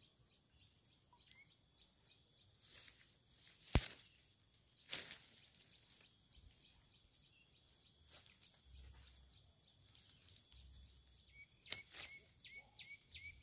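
Faint birdsong: a rapid run of high, evenly repeated chirps, about five a second, and from near the end a second bird's lower, rising chirps. A few sharp knocks stand out, the loudest about four seconds in.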